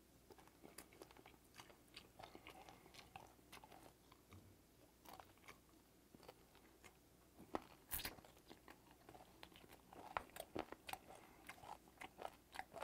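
Faint close-up chewing of steamed ray: soft crunches and wet clicks as the tough cartilage is chewed, with a sharper click about eight seconds in.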